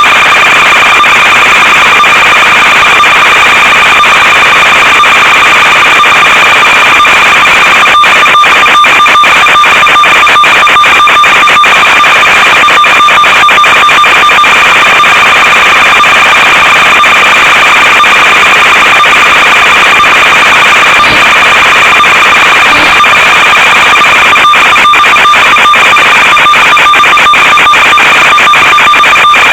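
Loud, steady electronic buzz and hiss from the audio channel of an analog FPV video link, one unchanging tone throughout, broken by brief crackling dropouts in clusters.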